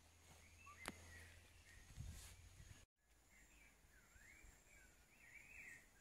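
Faint wild birdsong: warbling phrases that slide up and down in pitch, coming more often in the second half, over a steady thin high insect buzz. A sharp click about a second in, and the sound drops out briefly just before halfway.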